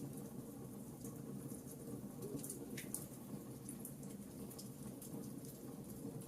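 Wood fire crackling in a fireplace: scattered small, sharp pops and snaps over a steady low rumble of the burning fire.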